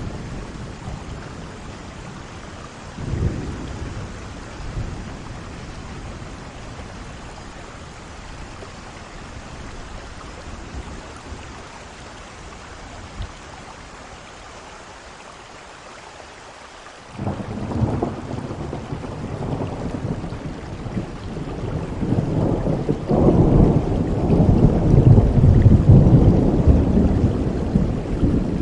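Steady heavy rain with thunder. A short rumble comes about three seconds in. About two-thirds of the way through, a sudden thunderclap breaks in and grows into long, loud rumbling near the end.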